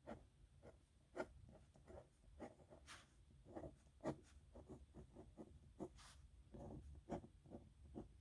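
Metal nib pen scratching faintly on paper in quick, irregular strokes, with a few sharper ticks and one longer stroke about six seconds in.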